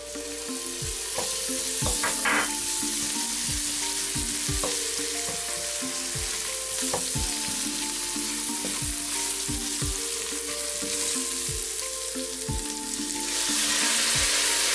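Onions and garlic frying in butter in a stainless steel pot, sizzling steadily while stirred with a spoon. Near the end chicken broth is poured into the hot pot and the hiss grows louder.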